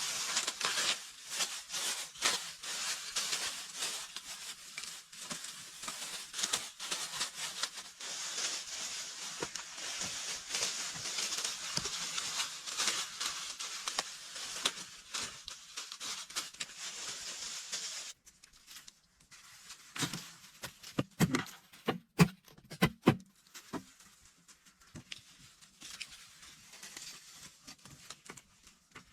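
Dense rustling and crackling that stops abruptly after about 18 seconds, followed a couple of seconds later by a short cluster of loud knocks.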